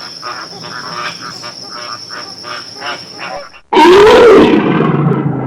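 Animal calls in two parts. First, rapid short calls repeat about three times a second over a steady high whine. Then, after a sudden cut near the end, a loud low animal call rises and falls in pitch.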